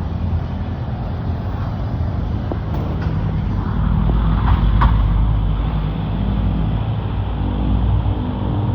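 Steady low rumble of an Airbus A330-300 airliner. It grows louder about four seconds in, with a few light knocks.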